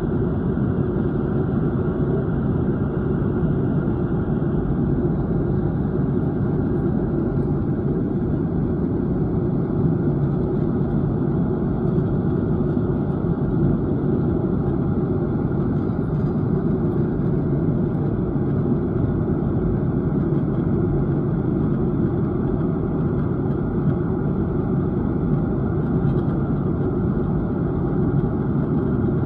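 Steady rumble of jet engines and airflow inside the cabin of a Boeing 737-800 airliner, holding even throughout.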